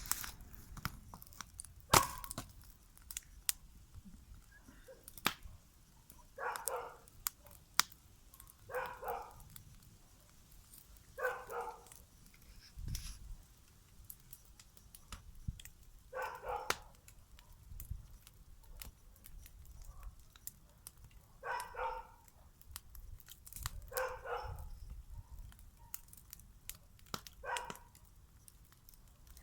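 A dog barking, single barks spaced a few seconds apart, about seven in all, with scattered sharp snaps and crackles in between.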